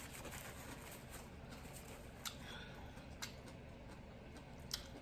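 Quiet eating: three faint, short clicks, spread out, over a low steady background.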